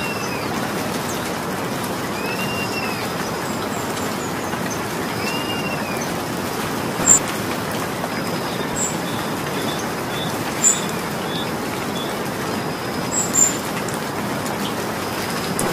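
Steady rain falling, an even hiss. A bird calls three times in the first six seconds, each a short rising-and-falling note, and a few sharp high ticks stand out later, the loudest about seven, eleven and thirteen seconds in.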